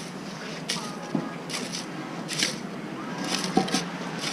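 Mini excavator engine running steadily, with short scraping and crunching noises about once a second, like the bucket working soil and gravel.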